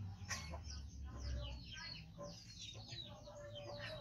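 Background bird calls: many quick, high, falling chirps, with a longer, lower held note near the end.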